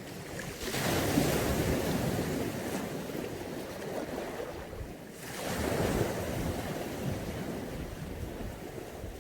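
Mediterranean sea waves breaking and washing up the shore: one swell about a second in that slowly fades, then a second, smaller swell around six seconds.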